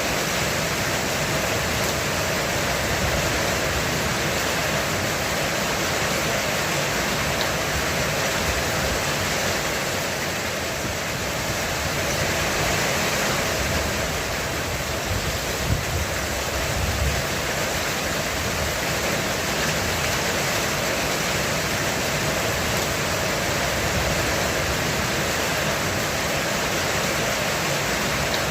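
Heavy rain pouring steadily on a roof, a dense unbroken hiss with a low rumble underneath that swells briefly past the middle.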